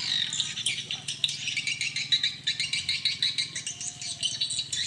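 Swiftlets twittering: a dense, rapid, rattling run of high chirps and clicks.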